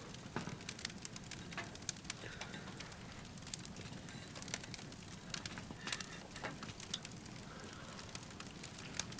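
Firewood crackling and popping in a titanium wood stove: irregular sharp snaps over a steady low hum of the fire.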